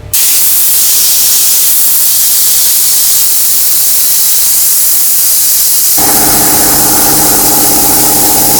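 Loud, steady hiss of compressed air from an air tool, starting abruptly. About six seconds in, a motor starts running underneath it with a steady hum.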